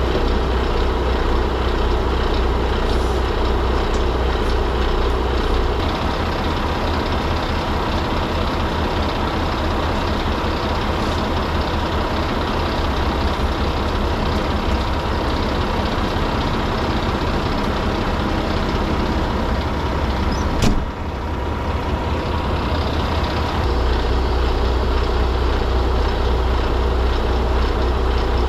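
Semi-truck engine running under way, a steady low drone that eases about six seconds in and picks back up near the end, with one sharp click a little past twenty seconds.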